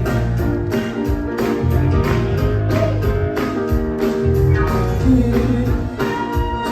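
Live band playing an instrumental passage with a steady beat and guitar, without lead vocals.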